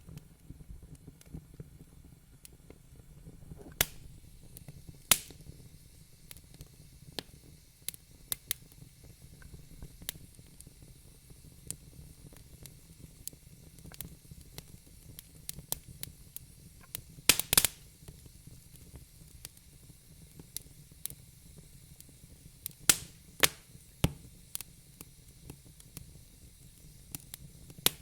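Wood fire burning in a fireplace, with a low rumble under frequent irregular crackles and pops. A few louder pops come in a quick cluster about two-thirds of the way through, and two more follow shortly after.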